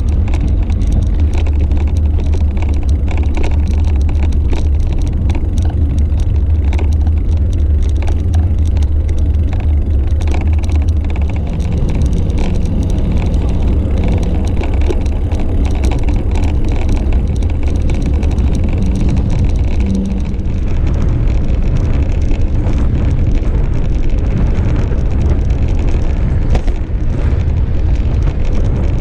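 Steady rumbling wind and road noise on a bicycle-mounted GoPro while riding along a road, with motor traffic mixed in.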